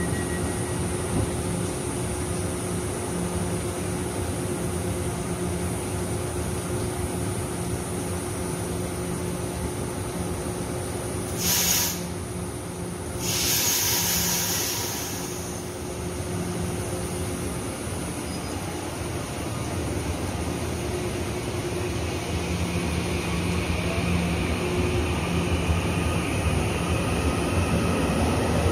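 Taiwan Railways EMU900-series electric train standing at the platform, humming steadily. Just before halfway there is a short sharp air hiss, and a second, longer one follows. Near the end the train pulls away with a rising motor whine and a growing rumble.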